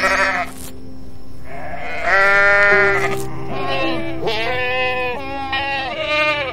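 Goats and sheep bleating, about five wavering calls in a row, the longest about two seconds in.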